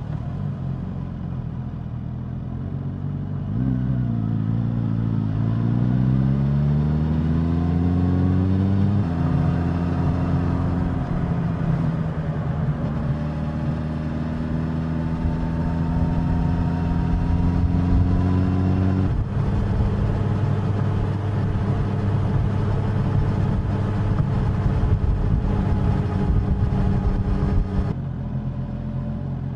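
Suzuki GSX-S1000's inline-four engine and exhaust on the move. It runs low for the first few seconds, then pulls harder about four seconds in with the pitch climbing. Gear changes come about nine seconds in and again about two-thirds through, then it holds a steady cruise before the throttle eases off near the end.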